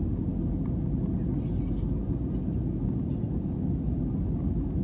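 Steady low rumble of engine and airflow noise inside the cabin of an Airbus A320, with a faint steady hum on top.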